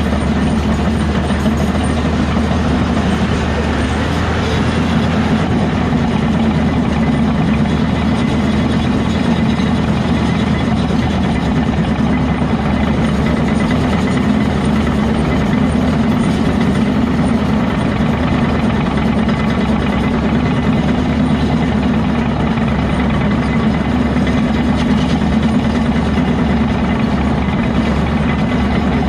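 Heavy diesel earthmoving machinery running steadily, a deep continuous engine drone with no sudden events.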